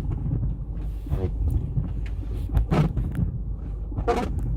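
Steady low road and engine rumble heard from inside a moving car, with three short voice sounds.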